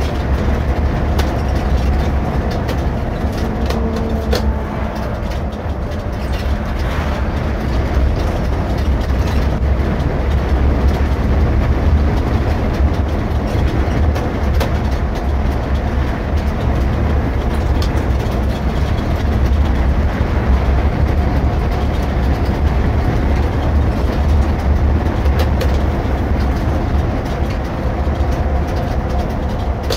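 Irisbus Récréo II coach under way: a steady low diesel drone with road noise, and scattered light clicks and rattles from the cabin.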